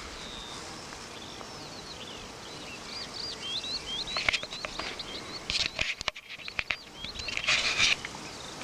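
A small bird singing a quick string of short, high, hooked chirps in an open field. A few short rasping bursts come in around the middle and near the end.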